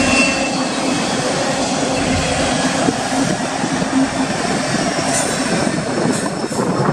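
Union Pacific freight train rolling past at track speed: a steady rumble and clatter of steel wheels on rail, with a low hum underneath.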